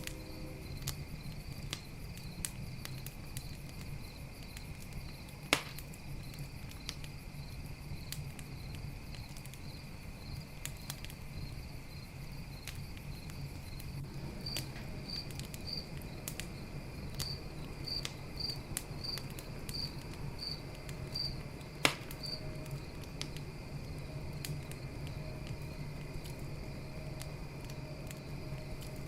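Campfire crackling with many small snaps and two sharp pops, one about five and a half seconds in and a louder one near twenty-two seconds, over a steady chorus of crickets chirping.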